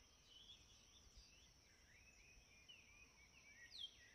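Near silence, with faint bird chirps in the background: short downward-sweeping calls scattered through, a few clearer near the end, over a steady faint high tone.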